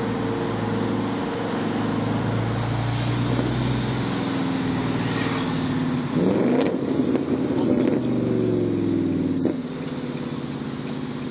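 Audi S5 with a loud aftermarket exhaust running steadily, then revving up hard about six seconds in with a rising engine note, and easing off again about three seconds later.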